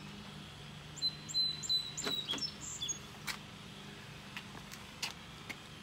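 A bird chirping, a quick series of short high notes from about one to two and a half seconds in, with scattered light clicks and taps throughout.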